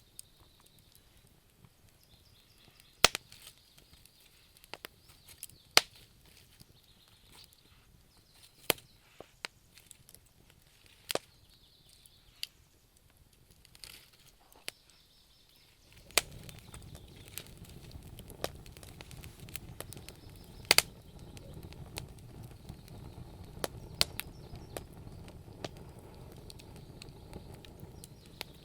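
Wood fire crackling in a fireplace, with sharp single pops every second or two. About halfway through, a low steady rumble of burning flames joins in.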